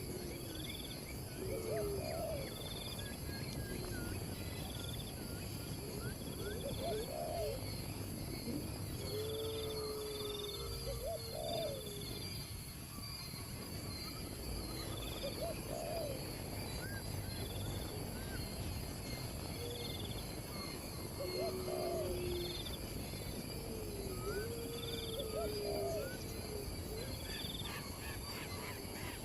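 Low whistled bird calls gliding up and down, repeated every few seconds, with fainter high chirps over a steady high-pitched drone of insects.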